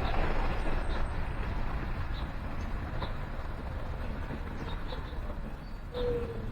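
Traffic noise from a passing vehicle on a nearby street, fading over the first few seconds, with short high bird chirps now and then. Near the end a dove starts a low, slightly falling coo.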